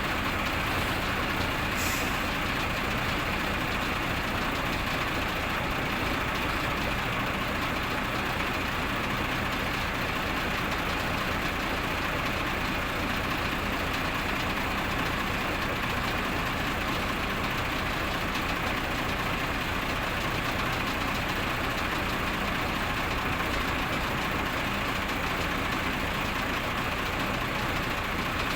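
Heavy engine running steadily, with a fast, even low pulse and a constant rushing noise.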